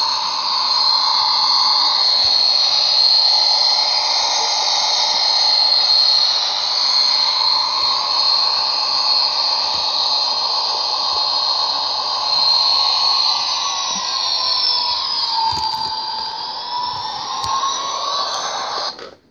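Model train locomotive running with its electronic sound unit, a steady high-pitched drone that dips in pitch and rises again near the end, then cuts off suddenly.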